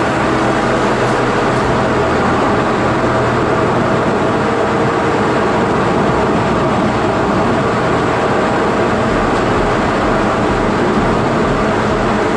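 Honda Integra Type R (DC5) on the move at a steady pace: a constant mix of engine and road noise, the engine holding an even pitch with no revving.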